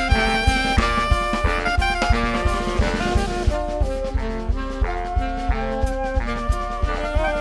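Saxophone-led band music with brass and a drum kit keeping a steady beat.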